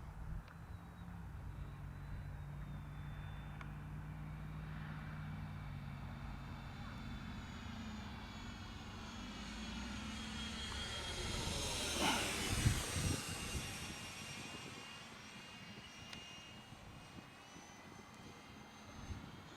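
Freewing T-33 Shooting Star 80mm electric ducted-fan RC jet making a pass: its fan whine swells to a peak about twelve seconds in, then fades as it goes by.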